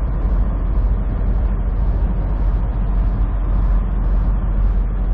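Semi truck engine and road noise heard from inside the cab while driving: a steady, loud low rumble.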